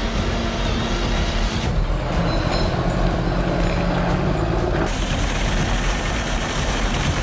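Heavy forestry machinery engines running under load, in short clips cut together: the sound changes abruptly twice.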